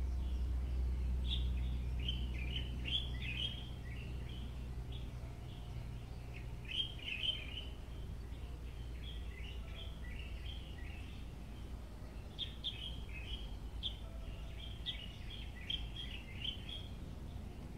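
Small birds chirping: many short, high calls in quick clusters, over a low steady rumble that eases after about six seconds.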